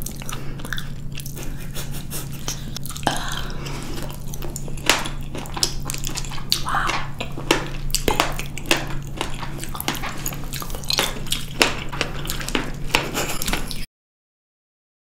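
Close-miked wet squishing, smacking and clicking of juicy blackberries being chewed, over a faint steady low hum; the sound cuts out abruptly near the end.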